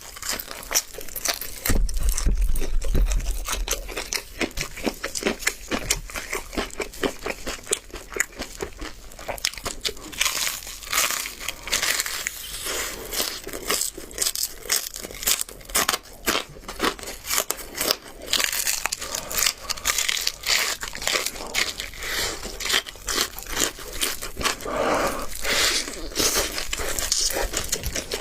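Close-miked eating of crispy double-fried chicken drumsticks: crust crackling and crunching, meat tearing, and chewing in a dense, irregular run of small crackles, with a low bump about two seconds in.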